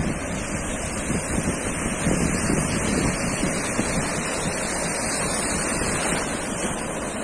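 Sea surf washing onto a sandy beach in a steady rush, with wind buffeting the microphone in low, uneven gusts.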